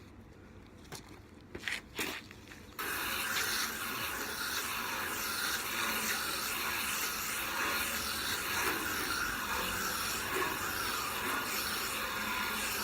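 Garden hose spraying water into the louvers and fins of an air-conditioner condenser coil to wash it clean; the spray starts suddenly about three seconds in, after a few short clicks, and then runs as a steady hiss.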